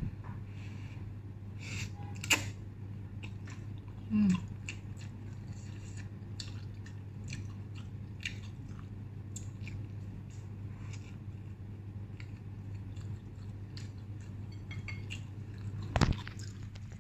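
A person chewing Indomie instant noodles close to the microphone, with scattered small clicks from chopsticks and bowl over a steady low hum. There is a loud knock near the end as the camera is handled.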